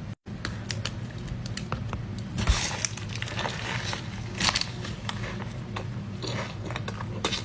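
Close-miked eating of a Chipotle meal: wet, crackly bites and chewing with many small clicks, and louder crunching bites about two and a half and four and a half seconds in, over a low steady hum.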